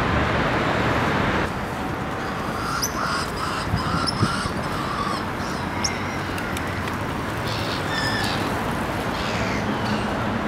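A row of short, harsh bird calls a couple of seconds in, with scattered high chirps, over a steady noisy background that drops in level after about a second and a half.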